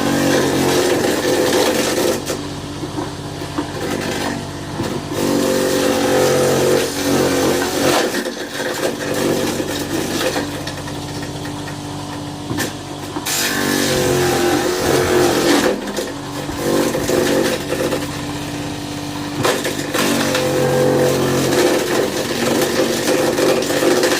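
Small electric motor of a homemade fruit-cutting machine running while fruit is fed in and cut, its sound swelling and easing every few seconds.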